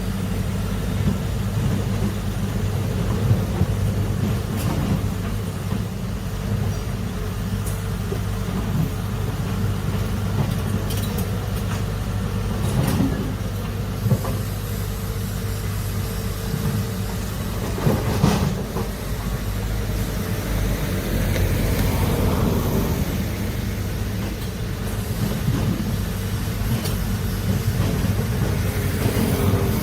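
Heavy diesel excavator engine running steadily under work, with a few sharp knocks and clanks along the way.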